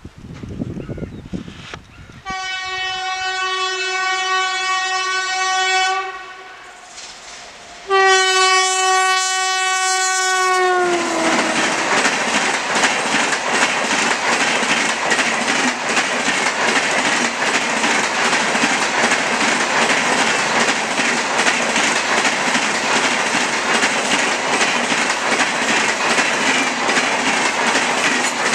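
An express train's locomotive horn sounds two long blasts. The pitch of the second falls as the locomotive passes. Then the coaches pass at speed with a loud steady rush and a rapid clickety-clack of wheels over the rail joints.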